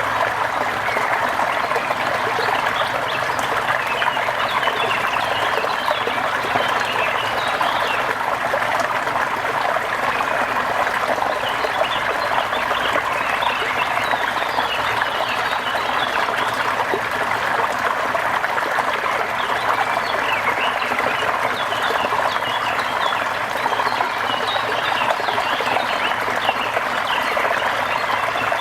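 Steady rain with a dense chorus of short chirping calls over it, unchanging throughout.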